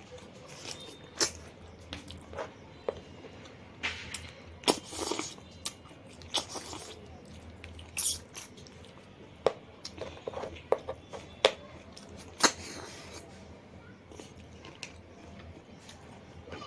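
Close-up eating sounds: chewing and crunching food, with scattered sharp clicks and smacks and a few short noisy bursts.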